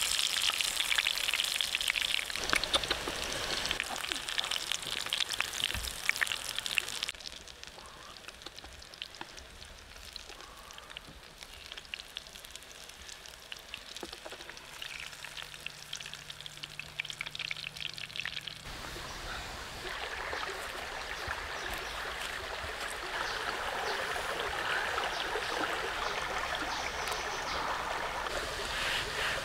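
Pig-intestine rolls stuffed with enoki mushrooms frying in bubbling oil in a pan: a crackling sizzle with many small pops that stops abruptly about a quarter of the way in. After a quieter stretch, a steady rushing noise sets in about two-thirds of the way through.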